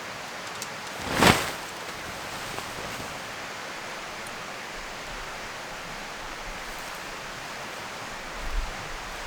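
Steady rushing noise of flowing river water, with one brief loud whoosh about a second in and a low rumble near the end.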